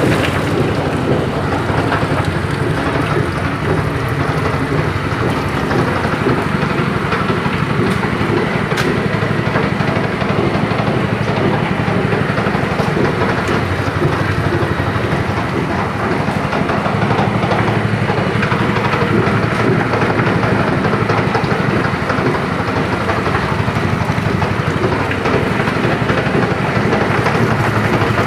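Chicken feather plucker machine running steadily, its motor giving a continuous, unbroken mechanical noise.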